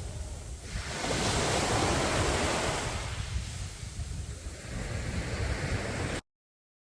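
Sea waves breaking on the shore: a wave surges in about a second in and washes out over the next two seconds, followed by a smaller swell. Wind rumbles on the microphone underneath, and the sound cuts out abruptly to silence near the end.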